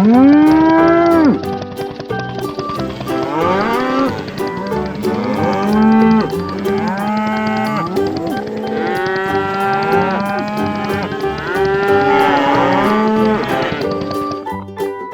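Cattle mooing over and over, one loud moo right at the start and then many overlapping moos, with steady background music beneath.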